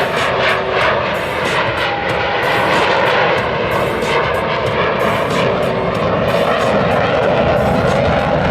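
F/A-18 Super Hornet jet engines running hard and steady during a slow, nose-high pass, with the noise building slightly toward the end.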